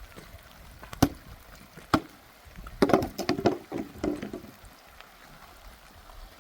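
Sharp knocks: two single ones about a second apart, then a quick run of clattering knocks, over a faint background of running water.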